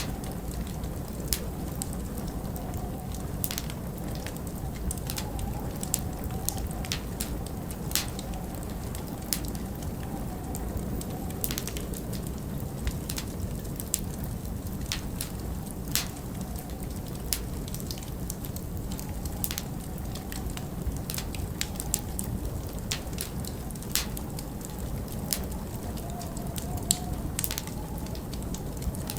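Wood fire crackling in a fireplace, with irregular sharp pops and snaps. Underneath runs a steady low rush of winter wind with a faint wavering howl.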